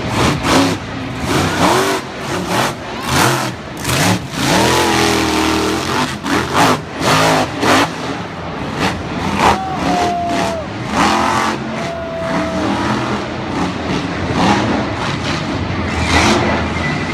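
Monster truck engine revving hard in repeated bursts, its pitch rising and falling again and again.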